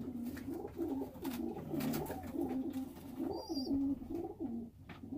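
Domestic pigeons cooing, one coo after another in a steady run, with a brief high chirp about three and a half seconds in.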